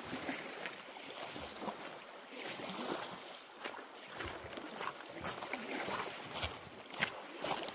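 Lake water splashing and lapping in small, irregular splashes, as around a kayak.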